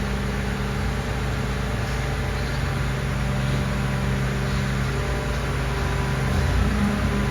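Mercedes-Benz Arocs garbage truck's diesel engine running at a steady low speed, a constant low hum.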